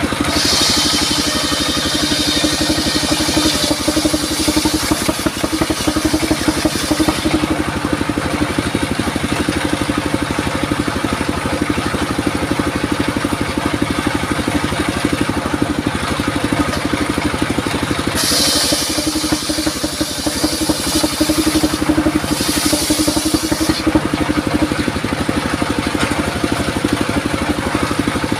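Circular saw rig running steadily, its blade cutting into durian wood twice: a first cut of about seven seconds starting just after the beginning, and a second of about six seconds starting around the middle.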